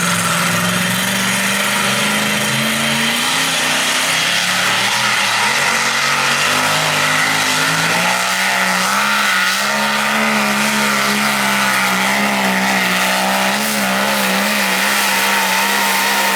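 Engine of a pulling vehicle running at high revs under heavy load on a sled pull. Its note holds fairly steady, with small rises in pitch and a slight wobble in the second half.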